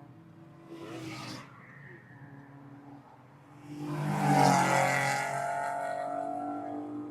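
A car engine idling steadily while another car's engine revs hard: a short burst about a second in, then about four seconds in a loud acceleration that peaks quickly and holds a high engine note as it slowly fades.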